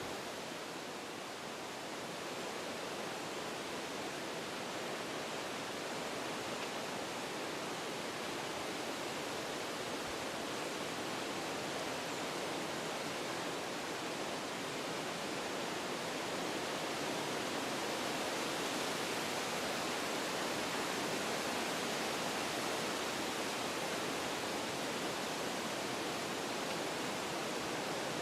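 Wind blowing through forest trees: a steady rushing that swells slightly over the second half.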